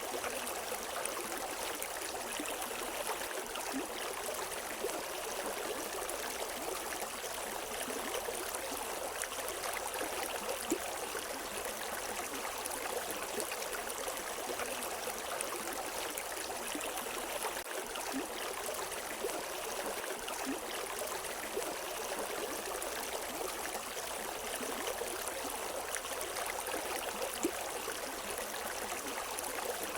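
River water flowing over stones, a steady rushing and babbling with small splashes here and there.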